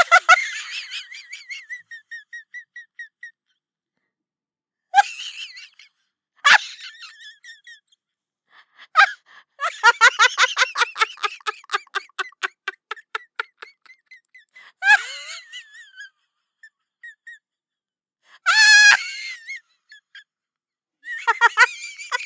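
A string of short, separate comedy sound effects played one after another with silent gaps between, among them a long run of quick repeated pulses lasting about four seconds near the middle.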